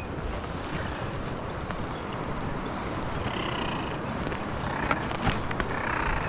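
A small bird calling repeatedly, short high chirps about once a second. Under them are footsteps and the brush of vegetation as someone walks down a scrubby track to the river.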